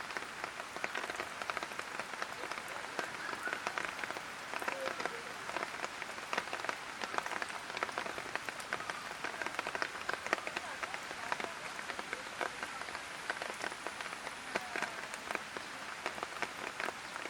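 Light rain falling steadily, with many small drops ticking on hard surfaces.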